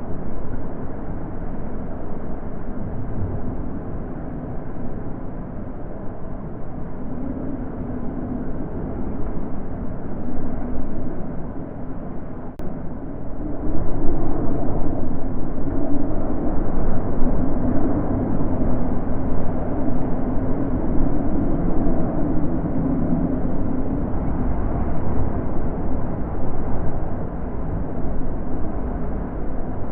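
Wind blowing, a low rushing that swells and eases in gusts and grows louder about halfway through.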